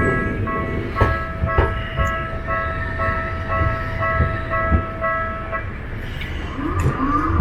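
Railway level-crossing alarm ringing with a steady, evenly repeating electronic tone that stops about five and a half seconds in, over low-pitched noise from the tram line with a few knocks, and a brief gliding squeal near the end.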